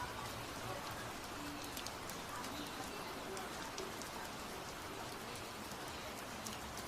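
Heavy rain falling steadily: an even hiss scattered with many small ticks of individual drops.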